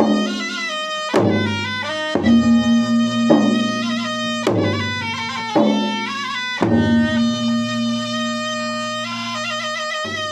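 Makassar-style wedding gendang ensemble: two-headed gendang drums beaten in a steady pattern, with strong accents about once a second for the first seven seconds, under a continuous nasal reed-pipe melody typical of the pui-pui shawm.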